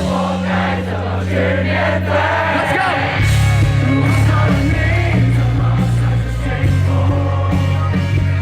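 Live rock band playing with a lead vocal over guitars, bass and drums; the bass and low end come in heavier about three seconds in.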